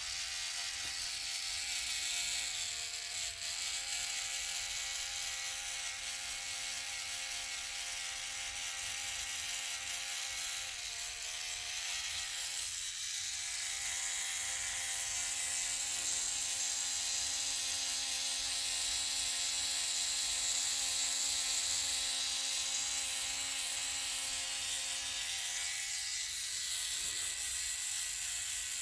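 Small battery-powered DC motor whirring steadily, starting abruptly. Its pitch dips briefly twice, about three seconds in and again around eleven seconds.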